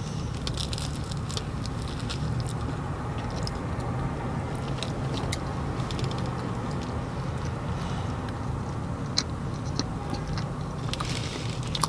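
Someone biting into and chewing a flaky blueberry cream cheese Danish: scattered soft crackles and mouth clicks over a steady low hum.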